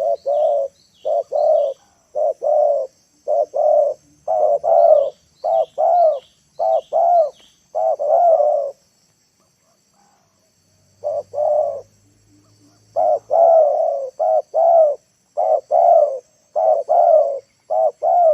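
Decoy spotted dove cooing over and over in short groups of two or three notes, with a pause of about two seconds a little before halfway. Faint high chirps of small birds sound above it now and then.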